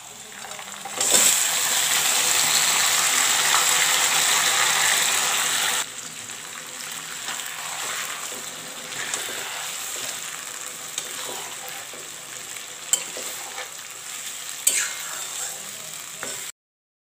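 Marinated chicken pieces sizzling as they drop into hot mustard oil in a kadai: a loud sizzle starts about a second in and settles to a softer frying sizzle after a few seconds, with a spatula stirring and scraping against the pan. The sound cuts off suddenly near the end.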